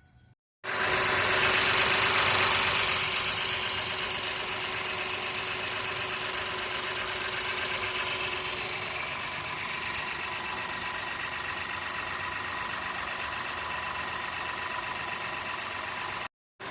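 2015 Acura TLX's 3.5-litre V6 engine running at idle with its new starter fitted, louder for the first few seconds and then settling to a steady idle.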